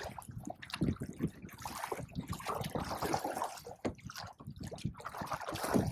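Small waves lapping and splashing against a kayak hull, in irregular short splashes and trickles.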